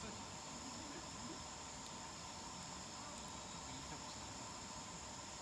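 Steady chorus of crickets, a continuous high-pitched trilling.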